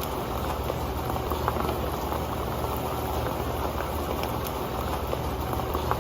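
Rain falling onto an old pan: a steady, dense patter of drops with occasional sharper ticks standing out.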